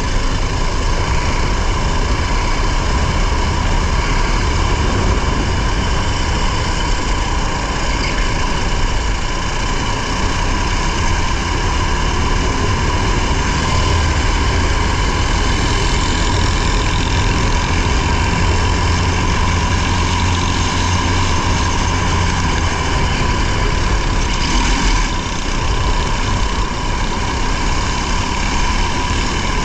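Racing car's engine running hard, heard from inside the car together with tyre and road noise, steady throughout with a brief dip near the end.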